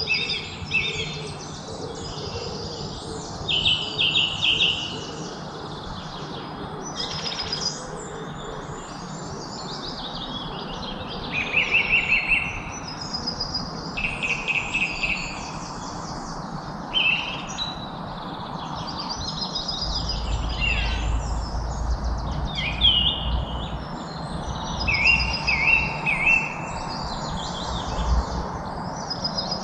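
Many birds singing and chirping at once, with overlapping short trills and repeated chirps, over a steady background hiss. A low rumble joins in about twenty seconds in.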